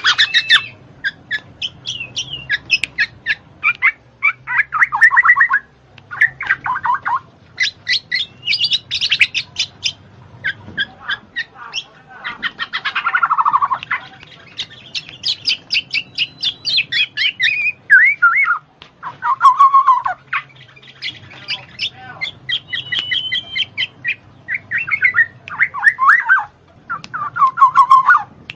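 A bird singing a long, varied song of rapid chirps, trills and sweeping notes, with short pauses between phrases.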